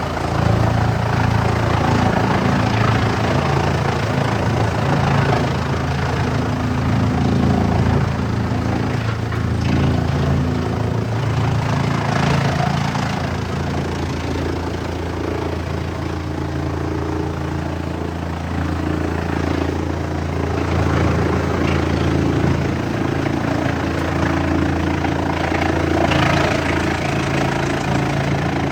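Wood chipper running steadily with its engine under load, and a rough, crackling noise of wood being chipped that swells and eases several times.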